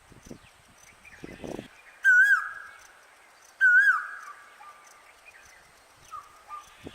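A bird gives two loud calls about a second and a half apart, each a short warble that levels into a held note and drops at the end, over faint chirping of other birds.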